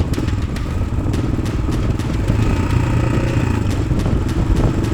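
Yamaha XT600's single-cylinder four-stroke engine running steadily through an Arrow aftermarket exhaust.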